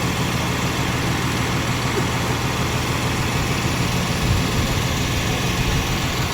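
Tractor diesel engine idling steadily, with a brief low surge about four seconds in.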